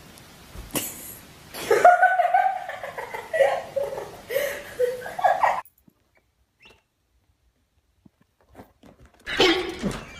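A person laughing in a run of high bursts for about four seconds, just after a short knock. It then goes quiet, and a short loud voice comes near the end.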